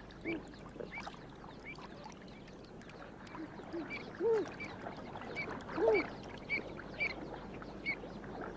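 Waterbirds calling: a steady run of short, high chirps, two or three a second, with a few louder, lower calls about four and six seconds in.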